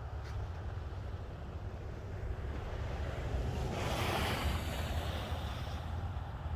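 A vehicle passing on a snowy, slushy street: its tyre hiss swells to a peak about four seconds in and fades away, over a steady low rumble of wind on the microphone.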